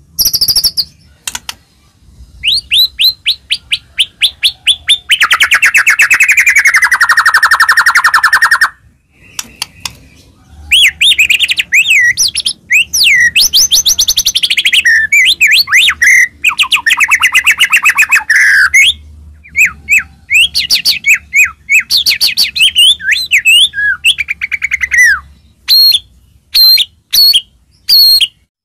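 White-rumped shama (murai batu) singing loudly in a varied song of rapid trills, whistled glides and sharp chipping notes, with two short pauses.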